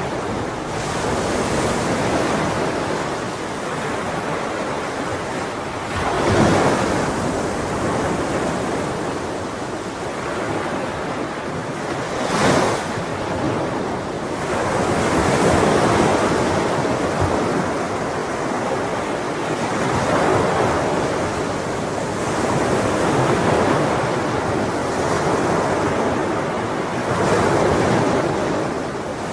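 Ocean waves breaking and washing on a shore, a continuous rush of surf that swells every few seconds as each wave comes in.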